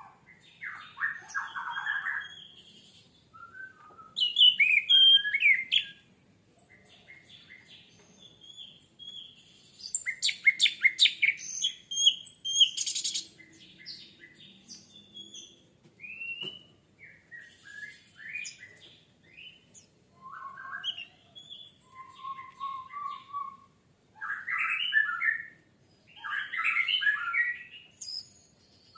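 Orange-headed thrush (anis merah) singing: a series of rapid, varied phrases of chirps and whistles, each one to four seconds long, with short pauses between them.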